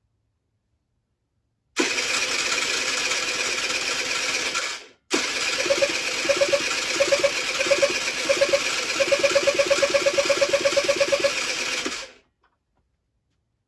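Electric starter of a Generic Trigger SM 50cc two-stroke cranking the engine in two goes, a short one and then a longer one, with a rhythmic pulsing that gets quicker during the second; the engine turns over but does not fire, because it will not run.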